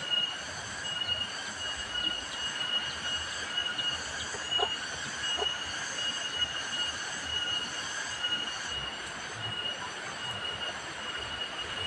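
Cicadas buzzing in a steady, shrill, high-pitched drone that flickers with short breaks.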